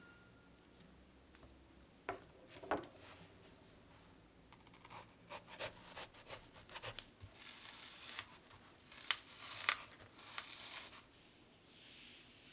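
Hands handling craft materials: two light knocks, then a run of short rubbing and rustling strokes, like paper, twine or dry plant material being worked.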